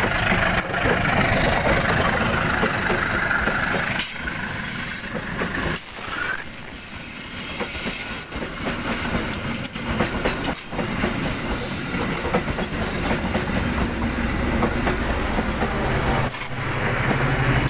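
Coaches of a locomotive-hauled KAI passenger train rolling past at speed: a steady wheel-on-rail rumble with clacks as the wheels cross the rail joints, and a high wheel squeal in the first few seconds. Near the end a low steady hum joins in as the train's power car goes by.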